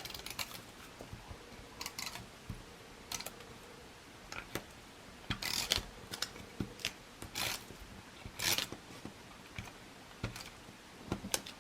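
Die-cut cardstock tag pieces being handled and pressed together on a work surface: scattered soft paper rustles, brief scrapes and light taps.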